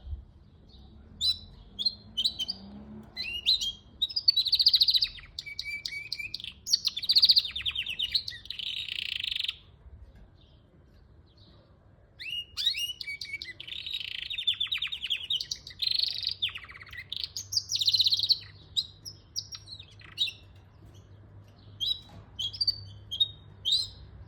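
Gloster canary singing: two long bouts of rapid trills and chirps with a pause of about two seconds between them, then short scattered chirps near the end.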